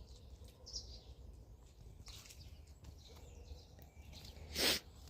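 Faint outdoor garden ambience: a few distant bird chirps over a low steady rumble, with one brief loud rustle about four and a half seconds in.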